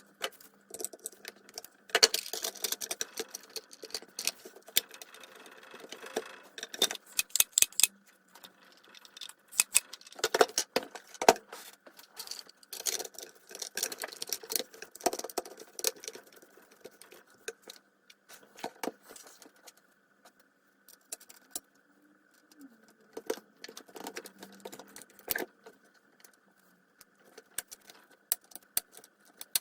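Irregular clicks, clinks and knocks of small metal parts and hand tools being handled during work on a circular saw, with a brief quieter pause about two-thirds of the way through.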